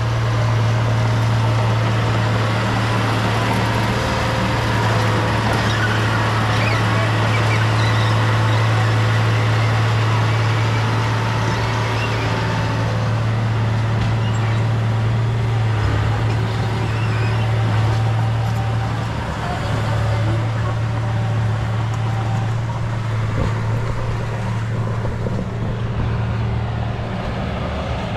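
Diesel engine of heavy earthmoving machinery, such as a bulldozer, running steadily with a strong low drone. It eases slightly about twenty seconds in.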